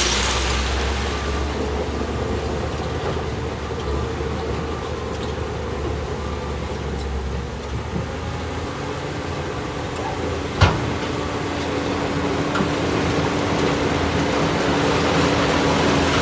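Shantui DH17C2 bulldozer's diesel engine running steadily under work, easing a little mid-way and building again near the end, with a single sharp metallic knock about ten seconds in.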